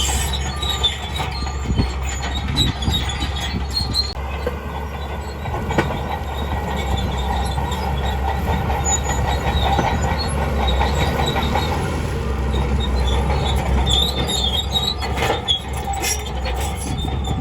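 Crawler bulldozer working: the diesel engine runs steadily underneath while the steel tracks squeal and clank continuously.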